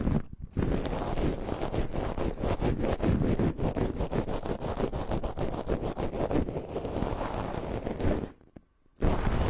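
Close rubbing and scratching directly on a binaural ASMR microphone, a dense crackly rustle with a heavy low rumble. It pauses briefly near the end.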